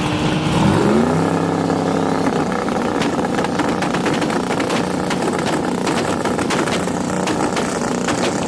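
Engine revs up about a second in and holds steady at raised revs, with rapid sharp crackling through the middle. It is most likely an LS V8 race truck.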